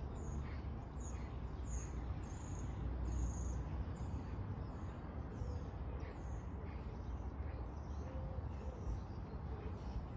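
Small birds chirping again and again, short high chirps, over a steady low background rumble of outdoor air.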